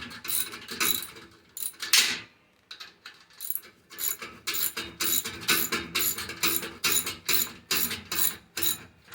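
Socket ratchet clicking in steady repeated strokes as it tightens the nut on the chrome exhaust tip's clamp, with a short pause about two seconds in.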